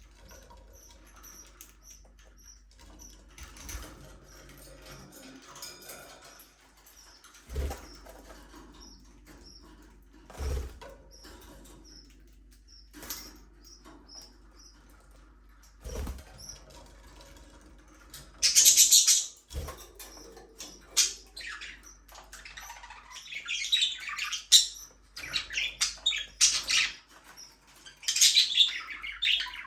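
Budgerigars chirping, sparse and faint at first, then in loud bursts of high chattering chirps from a little past halfway. A few sharp thumps fall in the quieter first half.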